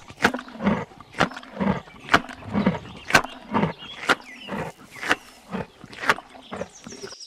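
Rhinoceros calling: a steady series of short, low sounds, each with a sharp click, about two a second.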